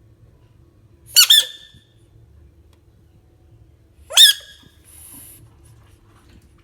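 Short, high-pitched animal squeaks: a quick double squeak about a second in and a single squeak rising in pitch about four seconds in.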